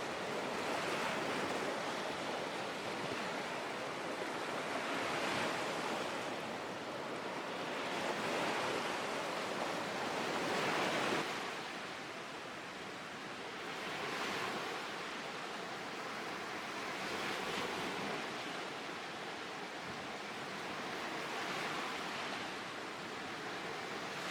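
Small Lake Huron waves washing onto the shore, swelling and fading every two to four seconds. The biggest wash comes about halfway through, and the rest are softer.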